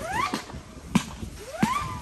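A consumer fireworks cake firing: sharp bangs about every two-thirds of a second, with short rising whistles between them.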